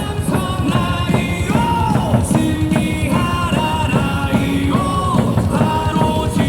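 Rock-style baseball cheering song playing loudly over a ballpark's loudspeakers, with singing over a steady beat.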